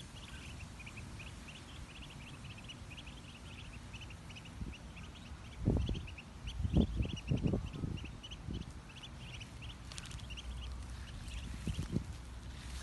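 Ducklings peeping: a rapid, steady string of short high peeps that fades out about eleven seconds in. A few low thumps from about five and a half to eight and a half seconds in.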